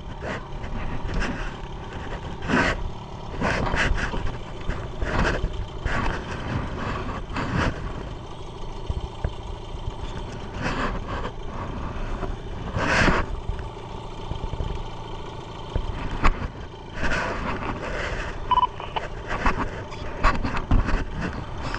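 Boat motor running, with irregular knocks and scrapes.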